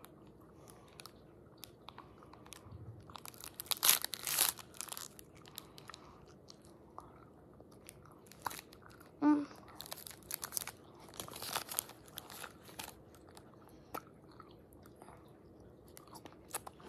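A child chewing a piece of powdery, cornstarch-coated gum close to the microphone: wet smacks and crunches, with louder bouts of chewing about four, ten and twelve seconds in and a short hum near the middle.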